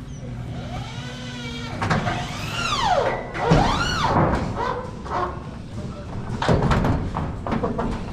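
Long-span metal roofing panel wobbling and warbling as it flexes while being handled, with sweeping rises and falls in pitch, followed by a run of sharp metallic knocks.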